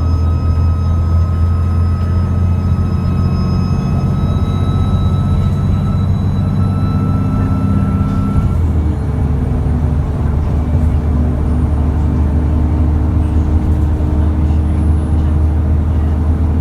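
Cummins ISBe 6.7-litre diesel engine of an ADL Enviro400 double-decker bus running under power, with a high turbo whine over the engine note. The whine sinks slightly in pitch and cuts off about halfway through as the engine note changes, then the engine runs on steadily.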